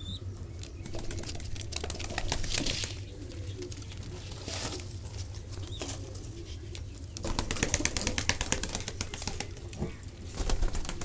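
Fantail pigeons flapping their wings in several bursts of rapid wingbeats, the longest and loudest about seven to nine seconds in, over a steady low hum.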